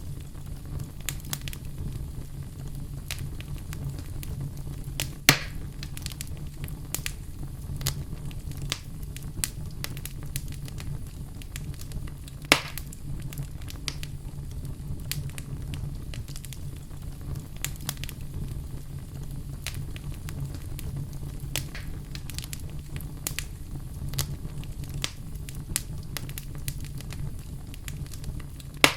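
Fire burning in a fireplace: a steady low rumble of flames with constant small crackles and two louder sharp pops, about five and twelve seconds in.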